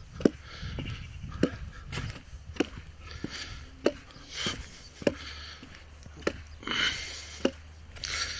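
Footsteps walking at a steady pace: a sharp tap about every half to two-thirds of a second, with a scuffing hiss between steps.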